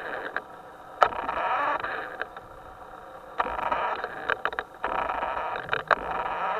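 Small electric motor of a radio-controlled boat whining. It drops away and comes back as the throttle is eased and opened, with a few sharp clicks.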